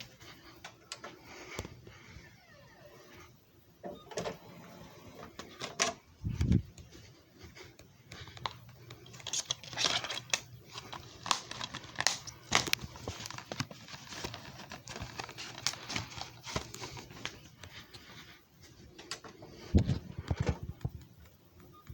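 Irregular clicks, taps and rattles of hard objects being handled, thickest in the middle, with two heavier thumps, one about six seconds in and one near the end.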